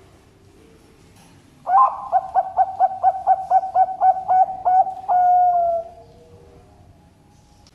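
Zebra dove (Bangkok perkutut) singing one song phrase: a quick run of about a dozen cooing notes, about four a second, ending on a longer held coo that sinks slightly in pitch.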